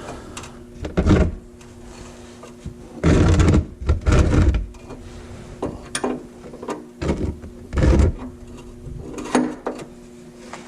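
Tools and a drain pan being handled under the truck at the oil pan drain plug: about six short knocks and scrapes, one of them around a second in and a cluster in the middle, over a steady low hum.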